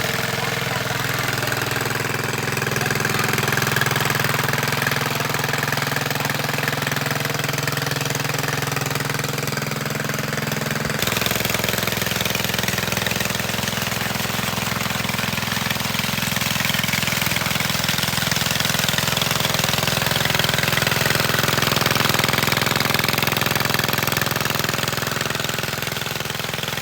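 Small petrol engine of a water pump running steadily, its carburetor freshly cleaned. The running note shifts abruptly about eleven seconds in.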